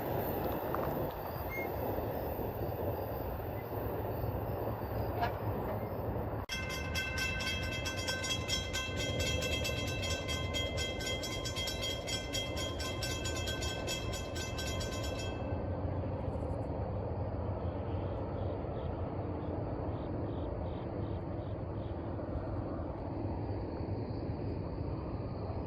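Railroad train passing, its rail cars making a steady rumble. For about nine seconds in the middle a high ringing signal with many overtones pulses rhythmically over it, then stops suddenly.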